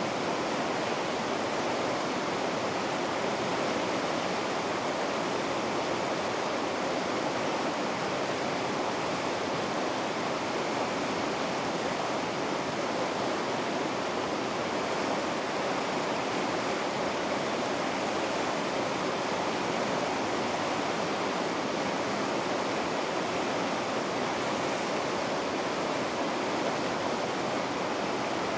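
River rapids rushing, a steady even roar of white water with no change or breaks.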